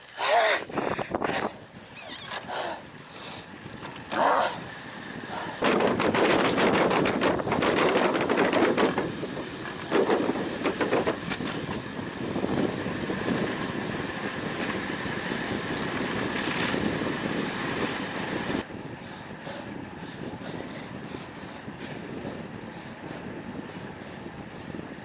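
Strong gusting wind buffeting an action camera's microphone while riding, a rough, uneven rumble. It is loudest through the middle and drops off suddenly about three-quarters of the way in.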